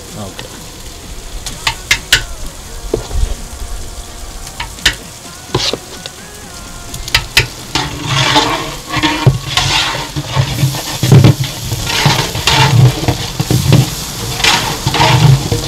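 Mint-coriander paste sizzling in hot oil as it is stirred into frying onions in a large biryani pot, roasting until its raw smell cooks off. Sharp knocks of a metal ladle against the pot come in the first half, and from about halfway the stirring grows louder and busier.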